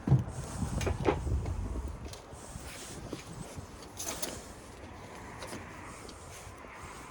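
Knocks and clatter from handling a heavy lead-acid forklift battery cell as it is worked out of the battery case: one sharp, loud knock at the very start, low rumbling, then a few lighter clicks.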